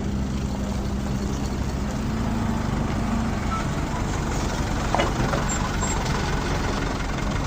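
Heavy diesel engines running steadily as an excavator loads sand into a dump truck, with a short knock about five seconds in.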